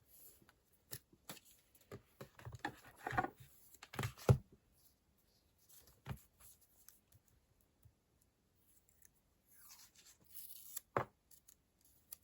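Desk sounds of paper and stickers being handled: a run of quick, crisp strokes about two to four seconds in, a few scattered taps, and a sharp click near the end.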